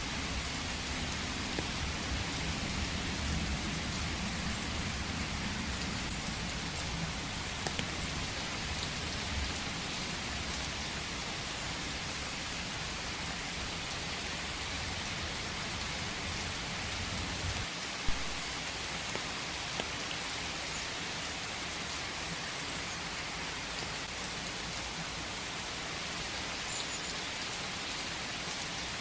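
Steady rain falling in a forest, an even hiss of many drops. A low rumble underneath stops about two-thirds of the way in, where a single sharp tap stands out.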